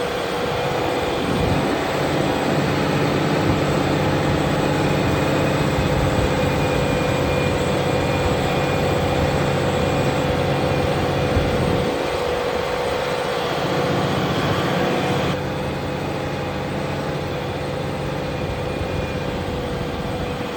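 Fendt tractor's diesel engine running steadily while ploughing, with a steady high tone over the engine note; about fifteen seconds in the sound grows slightly quieter and duller.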